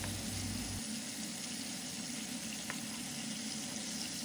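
Boneless chicken pieces sizzling steadily in hot oil in a non-stick kadai as they are turned with a wooden spatula, with one light click partway through.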